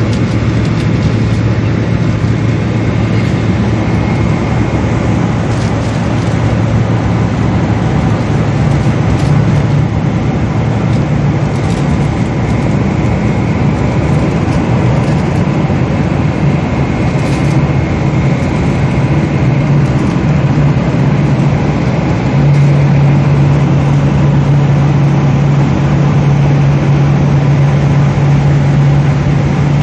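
Boeing 777 cabin noise: a steady drone of jet engines and rushing air, with a low hum that steps up in pitch about 22 seconds in as the engine power changes.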